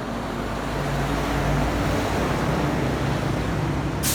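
Motor vehicle engine running, growing louder about a second in, with a brief sharp hiss near the end.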